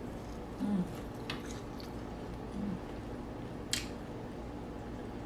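Close-up chewing and mouth sounds of someone eating deep-fried catfish, with two short low hums of enjoyment and a sharp click a little past the middle.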